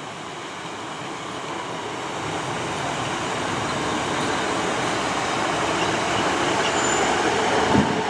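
Class 150 Sprinter diesel multiple unit running in on the line, its rumble and wheel noise growing steadily louder, with a short sharp knock near the end.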